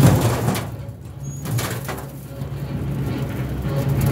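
A small tractor's engine running at a steady speed, dipping in loudness about a second in.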